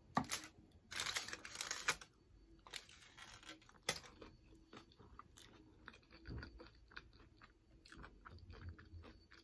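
Close-up crunching and chewing of a loaded tortilla-chip nacho: a dense crackly crunch about a second in, then a run of short, crisp crunches as it is chewed.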